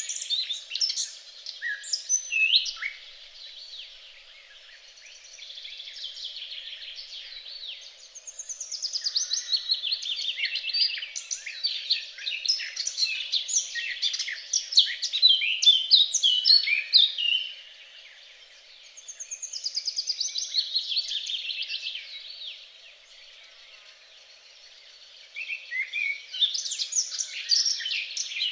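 Songbirds singing in bouts of fast trilled and chirping phrases, with short lulls between bouts.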